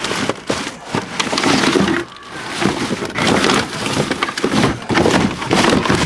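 Loud, continuous clattering and scraping noise, with a short lull about two seconds in.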